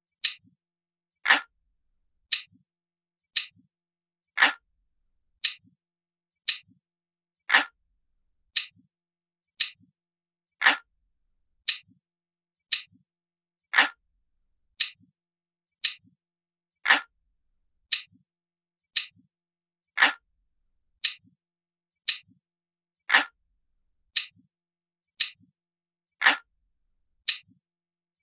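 Glass-like clock ticking, crisp and light, about one tick a second, with every third tick a little louder.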